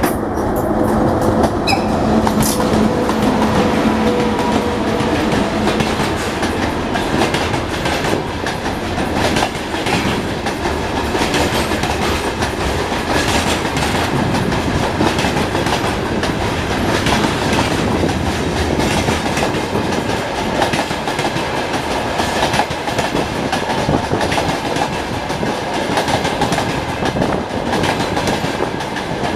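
Freight train rolling past at speed, a loud steady rumble with the wheels clicking rapidly over the rail joints. A steady hum sounds for the first few seconds, then fades.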